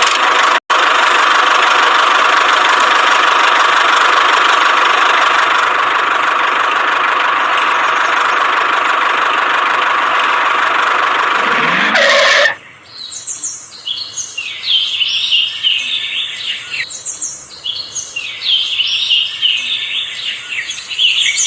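A loud, steady whirring noise that cuts off suddenly about twelve seconds in, followed by birds chirping in short, repeated calls.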